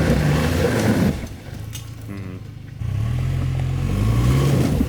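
Car engine revving in two long pushes, its pitch climbing each time, with a quieter stretch between. The car is labouring along a rough, bumpy forest track.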